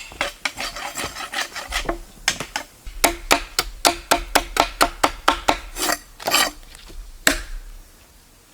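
Rapid, repeated rasping strokes, like something being scraped or filed by hand, about four a second through the middle. They end with one last loud stroke shortly before the end.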